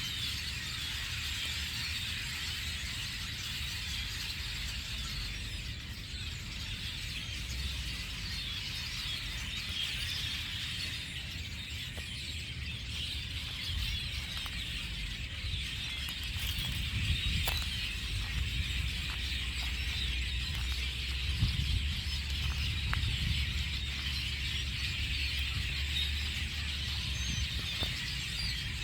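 A large flock of small birds chirping all at once in a dense, continuous chatter, over a low rumble.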